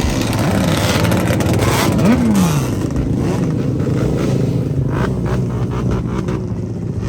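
Engine of a drifting vehicle revving up and down in quick repeated bursts, with a hissing squeal of tyres about a second or two in.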